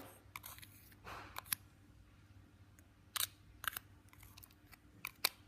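A spoon scraping slime off the inside of a stress ball: a soft scrape about a second in and a handful of faint, scattered clicks.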